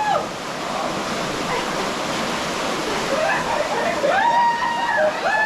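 Water rushing steadily over rocks in a stream or small waterfall. Near the end a voice sounds over it.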